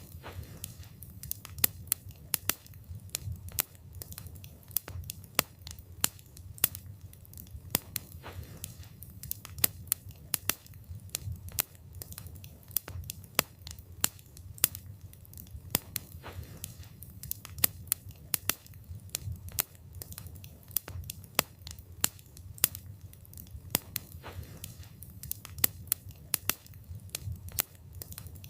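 Wood fire burning, with dense irregular crackles and pops of the burning wood, several a second, over a steady low rumble of the flames.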